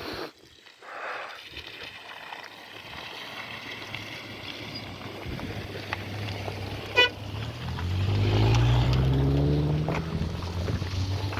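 A vehicle engine speeds up, its pitch rising, about eight seconds in, after a quieter stretch with a single click.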